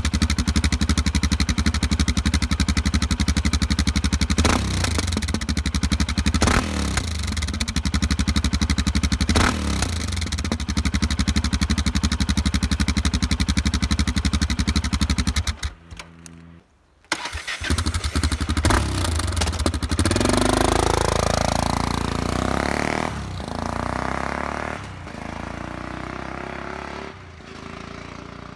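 Yamaha XT660Z Ténéré's single-cylinder engine idling with an even pulsing beat, blipped three times. After a break of about a second and a half it runs again, revs up with rising pitch as it accelerates, and fades away.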